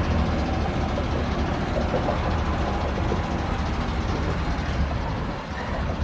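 Ford F450's 6.7-litre Power Stroke diesel V8 idling steadily, a low rumble.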